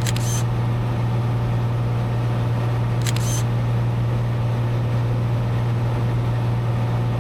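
Steady drone of a Cessna 182's piston engine and propeller in cruise, heard inside the cabin, with two short high clicks about three seconds apart.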